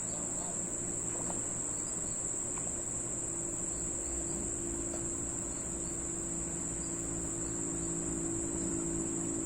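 A steady, high-pitched insect chorus of crickets or cicadas, unbroken throughout, over a fainter low steady hum that grows a little about three seconds in.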